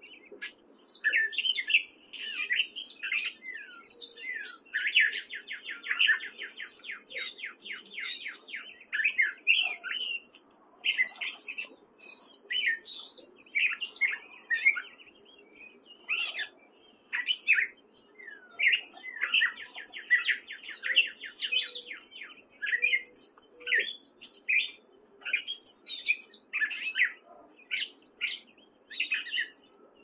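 Gray catbird singing a long, rambling song of short, varied notes with brief pauses between phrases, including two fast rattling runs, about five and nineteen seconds in.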